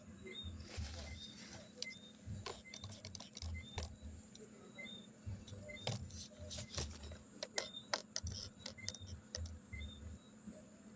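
Irregular clicks and taps from handling refrigerant lines and their fittings, over a steady low hum, with a faint high chirp repeating about every two-thirds of a second.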